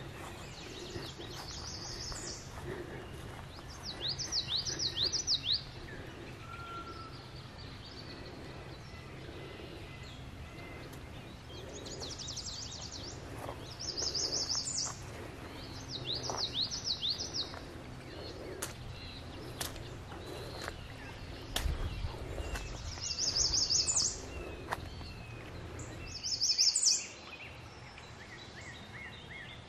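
Songbirds singing: two kinds of song take turns, a short dense high phrase and a lower zigzagging trill, each repeated several times a few seconds apart, over a steady low background hum.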